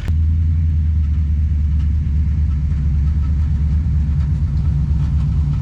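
Car engine running at a steady idle: a constant deep rumble.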